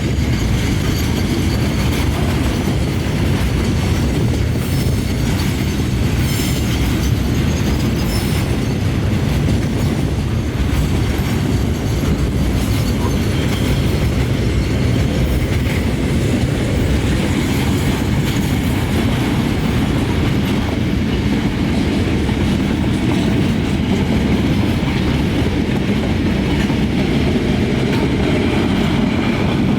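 Heavy diesel machinery running steadily: a continuous low rumble with no breaks.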